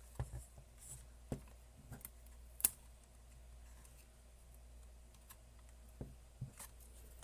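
Scattered light clicks and taps from handling the thermometer's parts and small tools during disassembly, over a faint steady hum.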